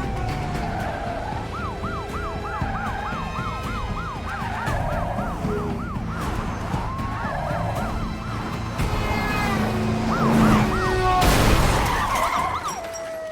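Police car sirens switching between a slow wail and a fast yelp over engine rumble in a car chase. A loud rushing burst of noise near the end.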